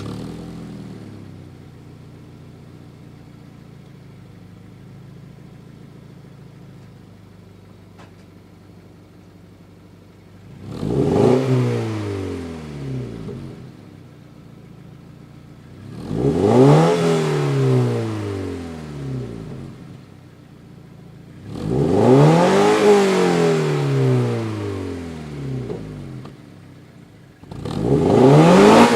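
Toyota 86's 2.0-litre flat-four boxer engine and exhaust idling for about ten seconds just after starting, then revved four times while stationary. Each rev rises sharply and falls back to idle over a few seconds.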